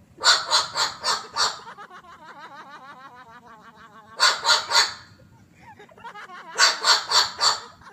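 A parrot squawking harshly in three runs of rapid calls, about three a second, with softer warbling chirps between the runs.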